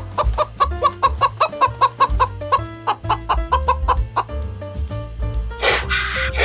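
A bird calling in quick, short, clucking notes, several a second, over background music with a low bass. Near the end, louder harsh calls break in.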